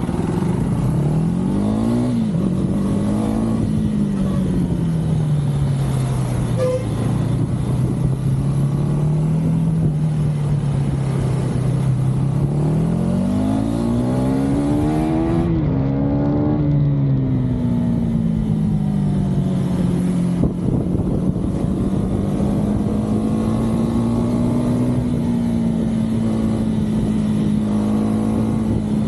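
KTM 390 Duke's single-cylinder engine and exhaust while riding, the revs climbing and falling as the bike accelerates and eases off. It revs up about two seconds in, then again around the middle with a quick dip and climb like a gear change, then settles to a steadier cruise.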